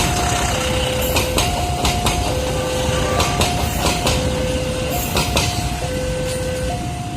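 A train running through the station, with a steady rumble and repeated wheel clicks. Over it an electronic two-tone warning signal alternates evenly between a higher and a lower note, each lasting a little under a second.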